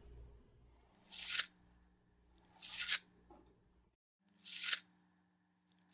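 Four short rasping swishes, evenly spaced about a second and a half to two seconds apart, over a faint steady hum.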